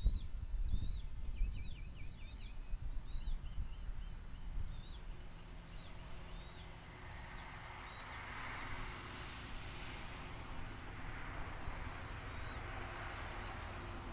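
Outdoor bird chirping: a string of short, quick rising-and-falling notes in the first half. Over it runs a buzzy high trill, once at the start for about two seconds and again for about two seconds later on. A low rumble runs under everything, and a soft hiss swells in the second half.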